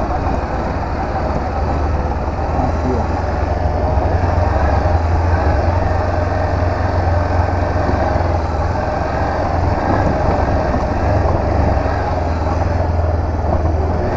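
Honda CB500X's parallel-twin engine running steadily on the move, a constant low rumble under a broad rush of wind and road noise.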